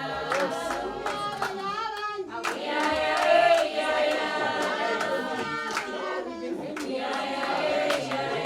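A group of voices singing together with steady rhythmic hand clapping.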